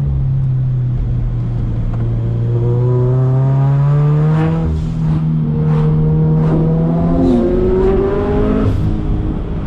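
Turbocharged Scion FR-S's 2.0-litre flat-four engine revving up and down through tight corners, its pitch rising and falling over a steady low hum. Several short sharp sounds cut in during the second half.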